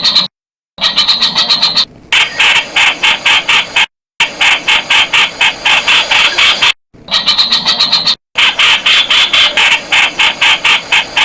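Streak-eared bulbul calling: fast runs of sharp, evenly repeated notes, about six a second, broken by a few short dead-silent gaps.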